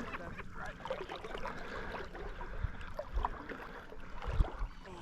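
Water sloshing and gurgling, with a few low dull thumps.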